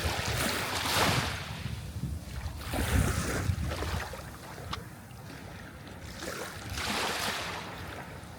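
Sea waves breaking and washing in, rising in three surges about a second, three seconds and seven seconds in.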